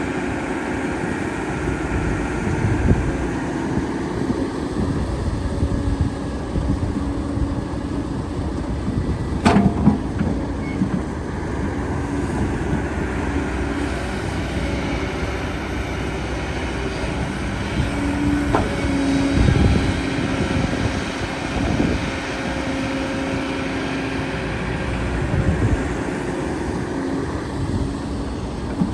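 Excavator's diesel engine running steadily under work, with two sharp knocks about nine and a half seconds and about eighteen and a half seconds in.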